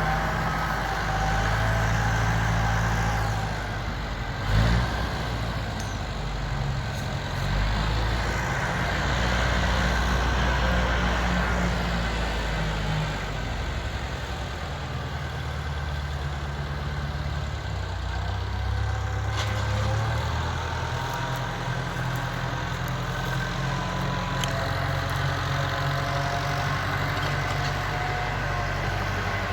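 A motor vehicle's engine running with a steady low rumble, with a brief thump about four and a half seconds in.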